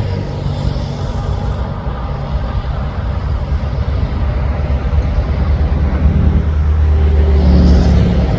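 Truck engine rumbling as it drives by, growing louder and peaking near the end.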